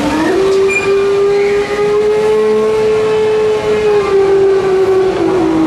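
The Grand Éléphant walking machine's trumpet call: one long horn-like note, stepping up in pitch just after it starts and sliding down near the end, over the steady noise of the machine.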